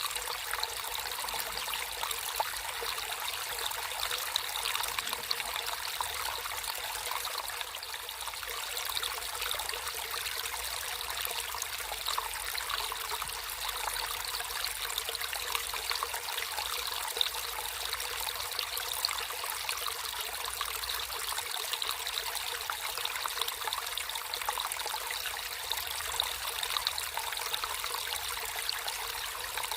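Natural running water trickling and flowing steadily over stones, a small stream with a continuous splashing babble.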